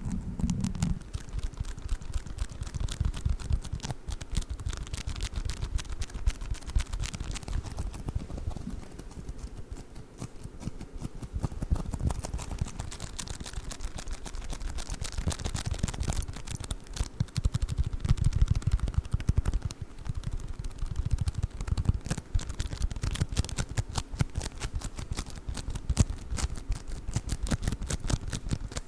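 Play foam being squished and kneaded close to the microphone: dense, rapid crackling and popping of the foam beads, with dull low thuds from the handling.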